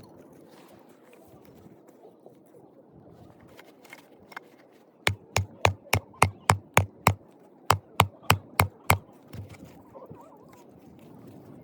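A run of about a dozen sharp knocks, roughly three a second, starting about halfway through, with a short break after the first seven or so.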